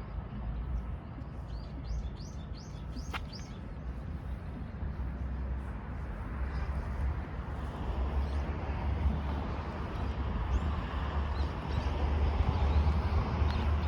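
A small bird chirping about six times in quick succession a couple of seconds in, with one sharp falling note among them. Under it runs a steady low outdoor rumble that grows louder in the second half.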